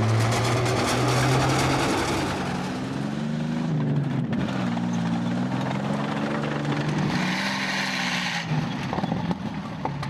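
Tank engine running with a deep rumble, its note rising and falling as it revs. A higher hiss joins for a second or so near the end.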